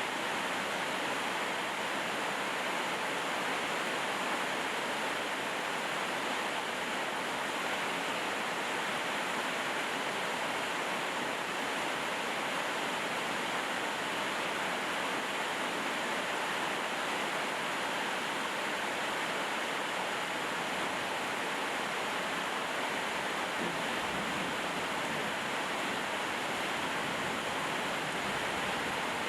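Steady rainfall, an even, unbroken hiss that holds the same level throughout.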